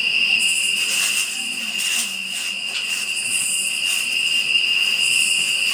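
Night insects: a steady high-pitched trill, with a higher buzzing that comes and goes about once a second.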